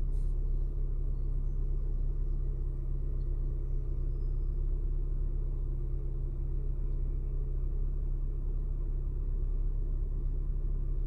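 Steady low rumble of a car's engine idling, heard from inside the car.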